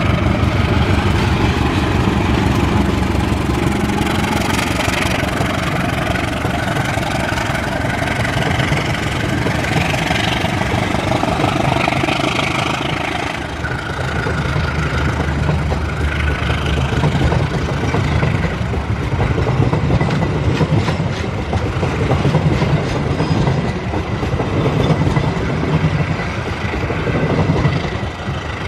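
A CC 206 diesel-electric locomotive pulls a passenger train past at speed, its engine running under power. After the locomotive passes, the long line of coaches rolls by with steady wheel-on-rail noise.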